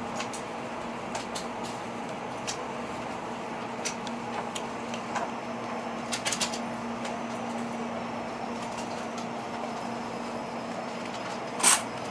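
Cabin sound of a Tokaido Shinkansen train creeping to a stop along the platform: a steady rumble with a low hum that dies away about nine seconds in, light scattered clicks and creaks, and one brief sharp noise near the end, the loudest thing heard.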